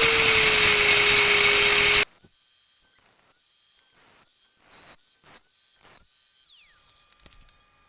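High-speed rotary tool with a cut-off wheel cutting through a steel wheel spoke: a steady high whine over a harsh hiss. It stops abruptly about two seconds in, and only faint sounds follow.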